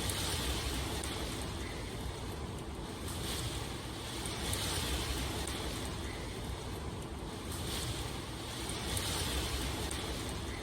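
Steady rain ambience: an even rushing hiss that swells and eases every second or two.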